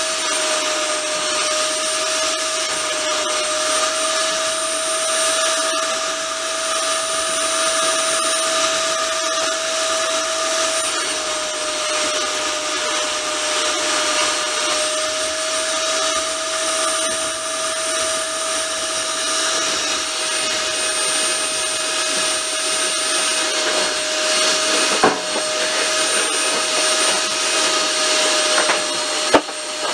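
Steady rushing noise of a moving train heard from inside the carriage, with a constant whine running through it. Two sharp clicks near the end.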